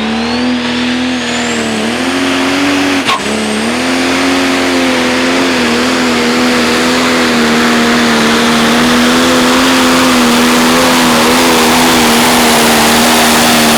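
Pro stock pulling tractor's turbocharged diesel engine running hard at full throttle under load, with a high turbo whine that rises over the first few seconds and then holds. Engine speed dips briefly about three seconds in, then stays steady.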